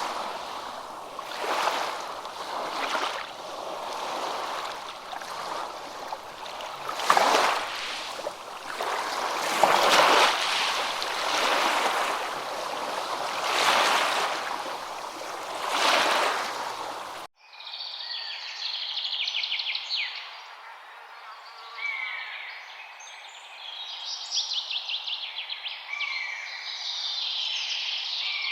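Rushing water swelling and falling every two to three seconds. About two thirds of the way through it cuts off abruptly to songbirds singing, with rapid trills and chirps.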